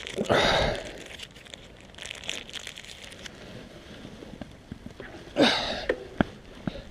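An ibuprofen packet being handled: crinkling and small crackles as it is turned over and opened, with two louder rustling bursts, one just after the start and one near the end.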